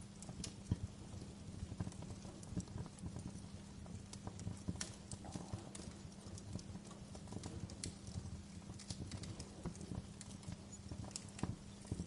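Fire crackling: irregular sharp pops and snaps over a low, steady rumble of flames.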